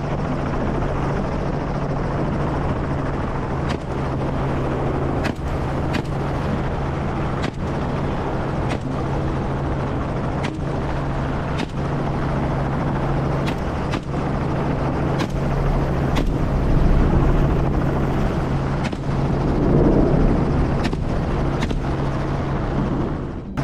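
Helicopter engine and rotors running steadily, with sharp cracks of rifle fire at uneven intervals, roughly one a second.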